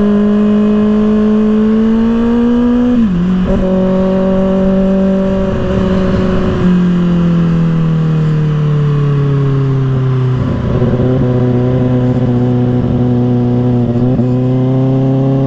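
2024 Kawasaki ZX-6R's inline-four engine through an M4 aftermarket exhaust, running under way. The revs climb gently, dip briefly about three seconds in, fall away steadily from about seven seconds, then hold and pick up slightly near the end.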